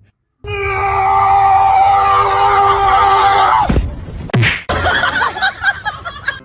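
A loud scream held steady for about three seconds, breaking off into two short falling cries, then more broken shrieking.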